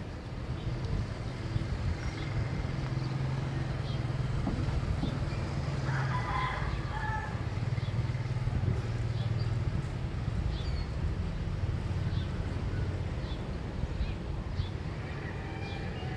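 Neighbourhood morning ambience dominated by the steady low hum of a motor vehicle's engine, with scattered faint bird chirps and a brief distant voice-like call about six seconds in.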